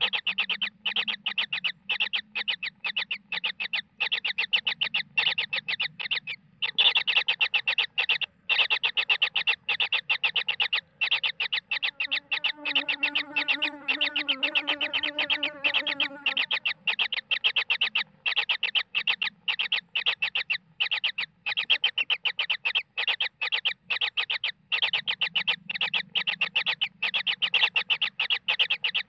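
Kingfisher nestlings calling: rapid, even, high chirps, several a second, without a break. About midway a lower, drawn-out pitched call joins in for a few seconds.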